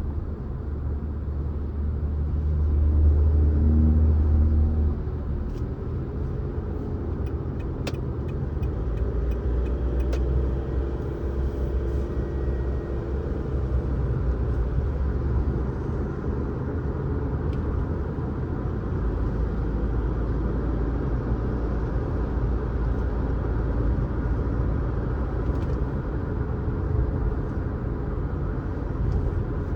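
Car driving along a road: a steady low rumble of engine and tyre noise that swells louder for a couple of seconds near the start, with a few faint clicks in the middle.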